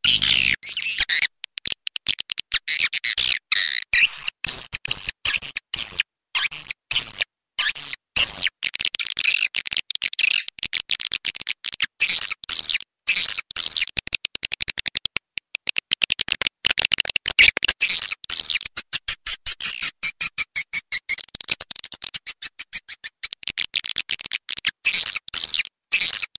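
Swiftlet lure call: recorded edible-nest swiftlet chirps, rapid high twittering in fast trains of short pulses with brief gaps, the kind of track played to draw swiftlets into a nesting house.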